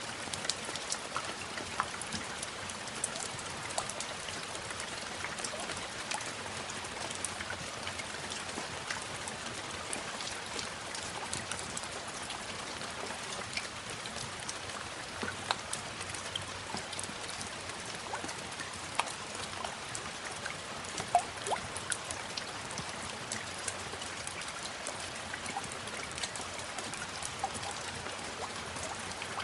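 Steady rain, with many individual drops ticking sharply throughout.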